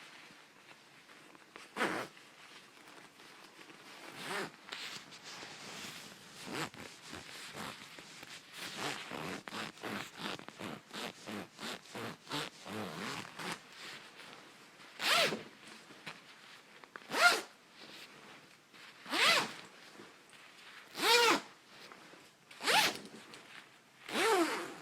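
Coat zipper being run by hand. There is one zip near the start, then a fast run of short back-and-forth zips, then six slower, louder full zips about two seconds apart.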